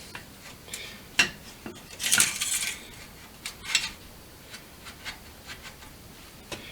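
Metal clinks, knocks and scraping as a slip-on exhaust muffler and its clamp are worked onto a motorcycle's exhaust pipe: several separate knocks, with a longer scraping clatter about two seconds in.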